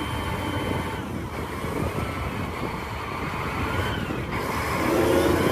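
Heavy vehicle engine running steadily, the engine sound that accompanies a wheel loader, getting a little louder near the end.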